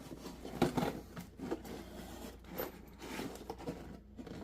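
A plastic jug being cut open by hand, with irregular scraping, snipping and crinkling noises, the loudest about two-thirds of a second in.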